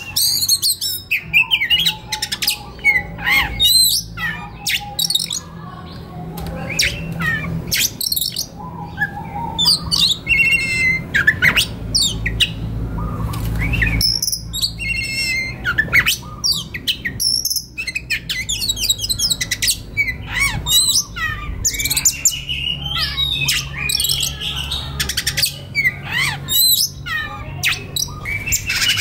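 Oriental magpie-robin singing continuously: a varied run of clear whistles, rapid trills and fast chattering notes with hardly a pause.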